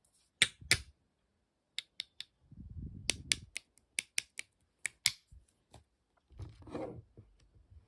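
Slime being pressed and played with by hand, giving a dozen or so sharp clicking pops at irregular intervals, with softer low handling noise in between.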